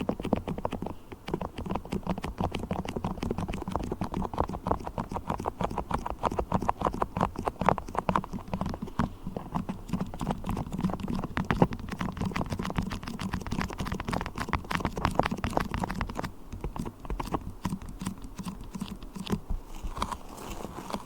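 Beeswax being handled close up: a fast, dense run of small sticky clicks and crackles.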